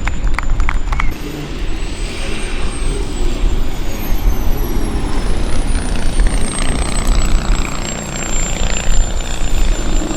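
Model jet turbine engine running with a thin high whine that slides slowly down in pitch, then rises a little near the end, over a heavy rumble of strong wind on the microphone.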